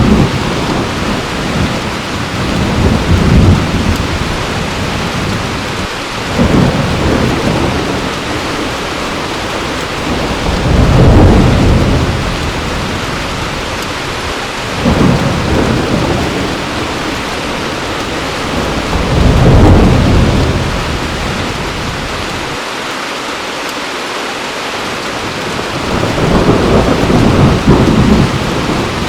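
Heavy, steady rain with low rolls of thunder that swell and fade every few seconds, about six times.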